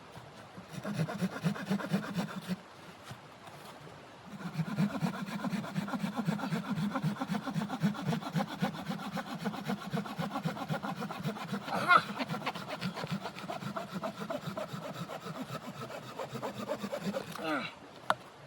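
Hand saw cutting through wood, a steady rasping stroke after stroke: a short bout, a pause, then a long steady bout with one louder scrape partway through.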